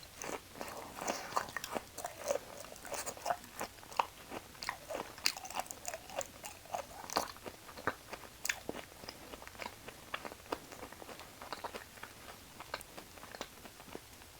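Close-miked chewing and biting of beef offal (liver and omasum): many small, sharp, wet mouth clicks a few times a second, thinning out after about ten seconds.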